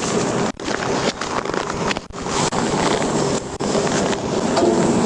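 Wind rushing over a body-worn microphone, mixed with highway traffic noise: a steady rush broken by a few brief dropouts.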